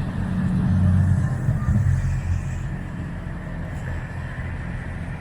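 Motor vehicle engine and road noise: a low rumble that swells over the first two seconds, then eases to a steadier level.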